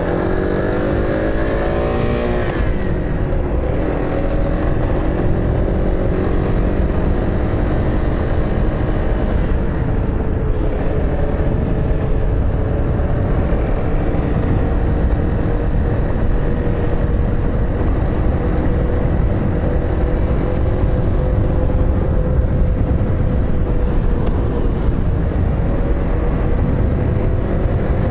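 Car engine accelerating, its note rising over the first couple of seconds, then running steadily at an even speed with constant low road rumble.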